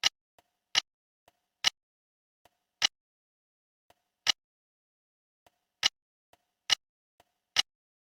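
Eight sharp clicks at uneven intervals, roughly one a second, each preceded a moment earlier by a much fainter click.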